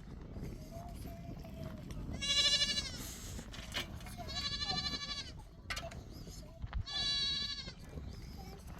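Goat bleating three times, each call high and wavering, a second or two apart.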